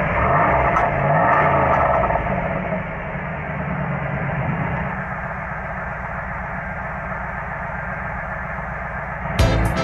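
1995 Pontiac Firebird Formula's LT1 5.7-litre V8 running, louder for the first couple of seconds and then steady. Music comes in near the end.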